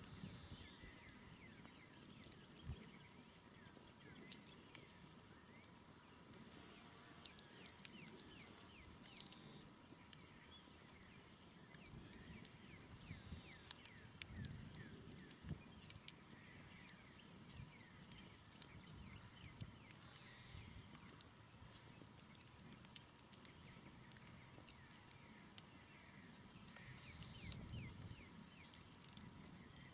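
Campfire crackling quietly, with frequent small clicks and a few sharper pops, while birds chirp in the background.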